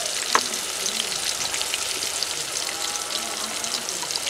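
Spices frying in oil in an aluminium pot over a fire: a steady sizzle with fine crackles, and one sharp tap about half a second in.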